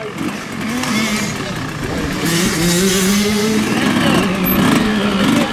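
Motocross motorcycle engines revving on the track, their pitch rising and falling as the throttle opens and closes.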